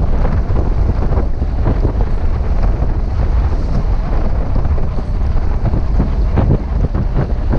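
Wind buffeting the microphone aboard a sailboat under way: a steady, loud, low rumble with brief gusty surges.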